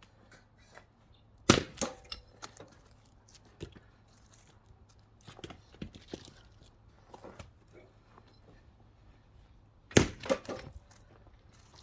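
Axe blows splitting pine firewood: two hard strikes about eight seconds apart, about a second and a half in and near the end, each followed by the wood cracking apart and split pieces knocking down. Lighter wooden knocks in between as logs are handled.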